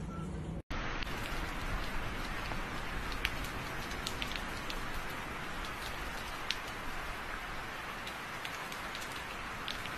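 Rain falling: a steady hiss with many scattered sharp ticks of single drops.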